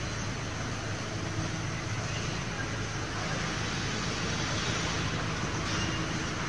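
Steady factory-floor noise from a tractor production line: a constant machinery hum with an even hiss over it and no distinct events.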